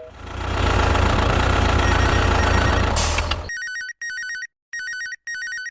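A loud rumbling noise for about three and a half seconds, then an electronic ringing tone in four short bursts, each warbling between two pitches like a telephone ringing.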